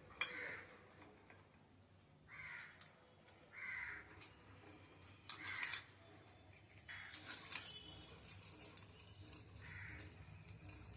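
A crow cawing again and again, single harsh calls one to three seconds apart. Sharp metallic clinks and rattles, like parts and tools being handled, come more often in the second half.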